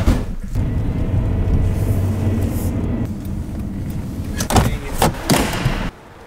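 A car engine running with a steady low rumble, then three sharp thuds in quick succession near the end before the sound cuts off abruptly.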